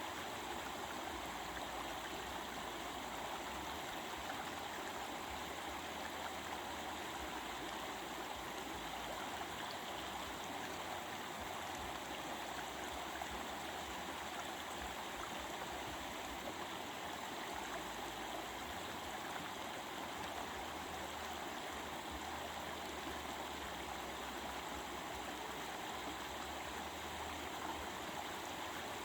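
Stream water running over rocks, a steady, even rushing and babbling.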